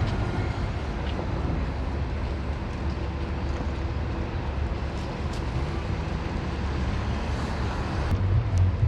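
Outdoor ambient noise: a steady low rumble with a hiss above it, getting louder and more uneven near the end.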